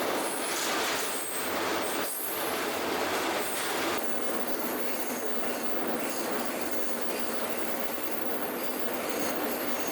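Freight train rolling along the rails: a steady running noise with faint clatter and a thin, high-pitched wheel squeal held throughout.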